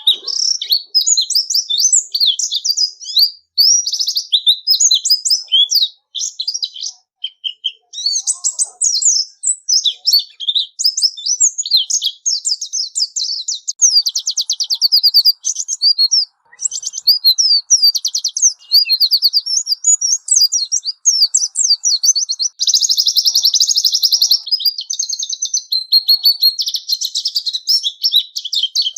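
White-eye (pleci) singing without pause: a fast, high-pitched twittering of chirps, warbles and quick trills, with a denser run of rapid notes about three-quarters of the way through.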